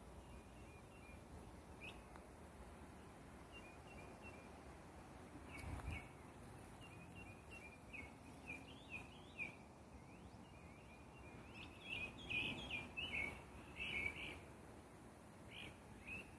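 Songbirds chirping and singing outdoors, a run of short quick chirps that grows busier and louder about twelve seconds in. A brief low thud about six seconds in.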